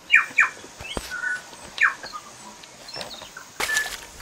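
Short, sharply falling bird chirps, two close together at the start and another about two seconds in, with a few light clicks. Near the end comes a brief rush of noise like a splash as a trout is let back into the water.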